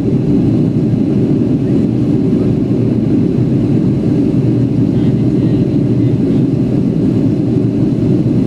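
Steady low rumble of a Boeing 757's jet engines and rushing airflow heard from inside the passenger cabin during the climb after takeoff.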